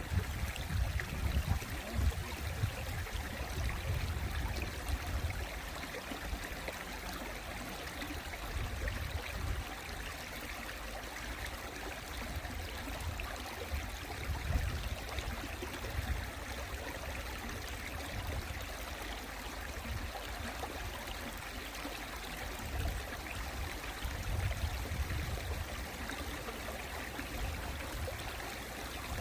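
Mountain stream water running over rocks, a steady rushing and trickling, with a deep low rumble that swells and fades every few seconds.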